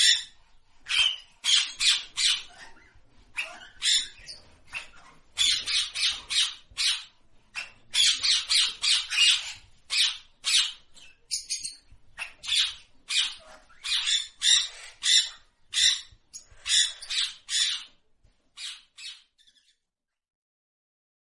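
Harsh bird squawks repeated in quick clusters of short, rasping calls without a clear pitch. They stop shortly before the end.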